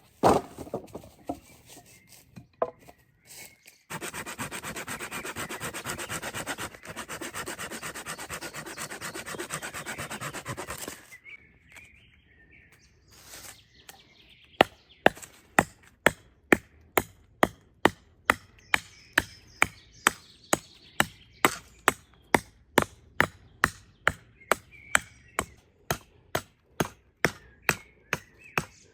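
Hand tools working wood. First comes about seven seconds of steady rasping, like a saw or rasp drawn through wood. After a pause, a long run of sharp, even strikes on wood follows, about two a second.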